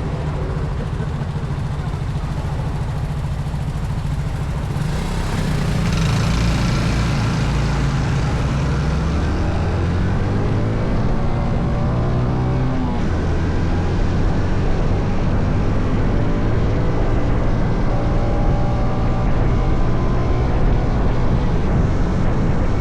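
Honda CT125's small single-cylinder engine running steadily under way, with wind rushing over the microphone. The engine pitch shifts about five seconds in and glides up and down between about ten and thirteen seconds.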